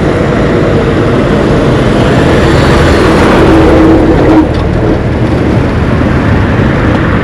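Road traffic passing close: cars and other vehicles driving by, with a steady engine drone that drops away sharply about four and a half seconds in.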